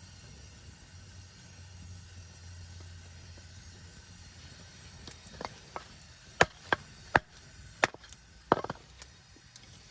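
A series of about eight sharp knocks, starting about halfway in and coming at uneven intervals, one followed by a brief ring; before them only a faint low hum.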